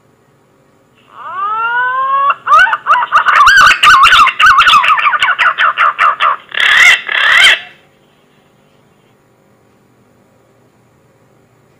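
Green pigeon (punai) call played as a hunting lure: a rising whistled note, then a fast run of warbling, wavering notes, ending in two louder notes, over a faint steady hum.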